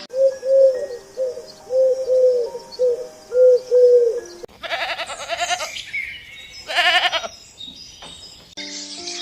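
A run of about eight short, low cooing calls, then two loud, wavering bleats about two seconds apart.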